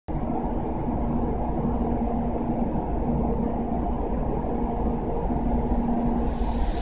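Steady low rumble of an approaching N700 Shinkansen, with a high rushing hiss building near the end as the train nears.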